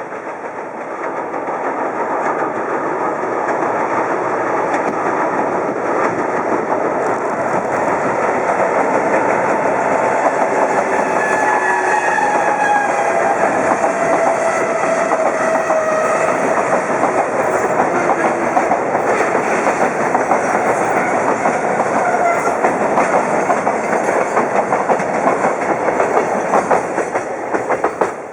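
Container freight train hauled by an EF81 electric locomotive crossing a railway bridge: a loud, steady rumble and clatter of wagon wheels over the rails. It builds over the first couple of seconds and drops off near the end. Faint thin tones slide slowly downward through the middle.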